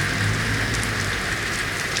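Steady rain falling on city street surfaces, a dense hiss of drops with small patters. A low hum underneath fades out about a second in.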